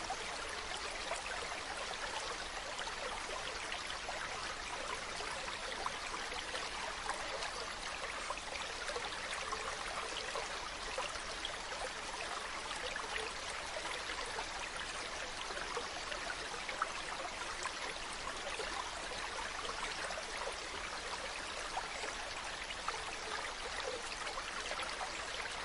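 Mountain stream flowing over rocks, a steady babble of running water with small splashes.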